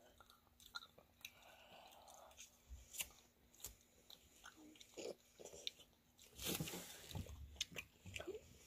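Quiet chewing and biting of fresh rambutan fruit, with scattered small clicks and mouth noises. There is a louder stretch about six and a half seconds in.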